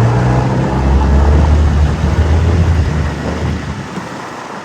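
Old Yamaha outboard motor opening up, running loud and steady as the boat gets under way; its low note drops away about four seconds in.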